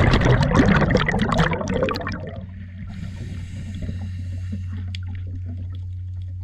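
Boat engine running with a steady low drone, under loud splashing and gurgling water for the first two seconds or so that then settles to a lighter trickle.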